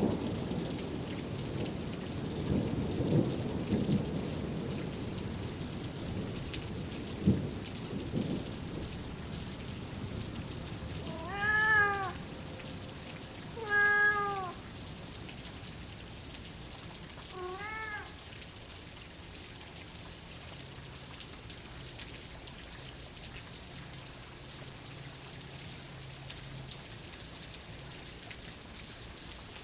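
Steady rain with rumbling thunder through the first several seconds, including one sharp crack. Then a cat meows three times, a few seconds apart, the last one fainter, over the continuing rain.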